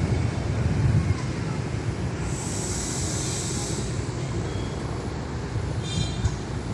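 Passenger train rolling past with a steady low rumble of wheels on track, and a rushing hiss that swells and fades midway.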